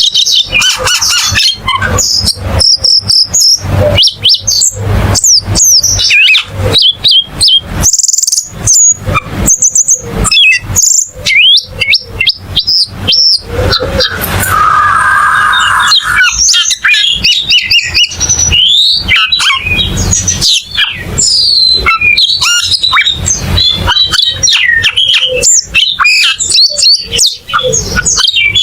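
A cucak keling singing a long, rapid, varied song of whistled and chirping notes with hardly a pause, including a harsher rasping stretch about halfway through.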